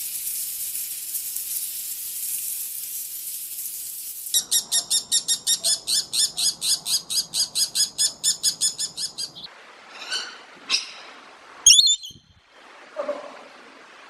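A bird calls in a fast, high chattering series of about five notes a second, after a steady hiss. A few separate calls and a sharp click follow.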